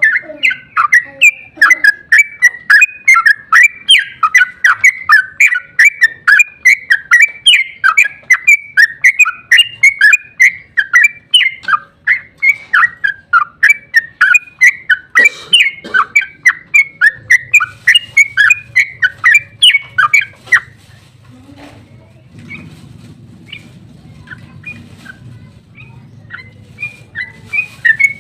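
Yellow-vented bulbul (trucukan) singing a long, rapid run of chirping, whistled notes. The run stops about two-thirds of the way in, leaving only scattered faint notes, and starts again near the end.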